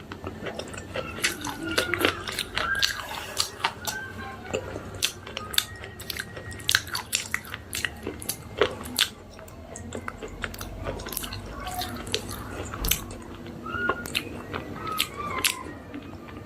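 Slate pencils being bitten and chewed close to the microphone: a run of sharp, dry crunches and cracks, several a second and unevenly spaced.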